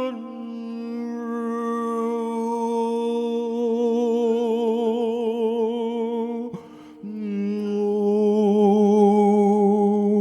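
Sung vocal toning for sound healing: long held notes with a slow vibrato. About two-thirds through the sound breaks off briefly, then a new, slightly lower note is held.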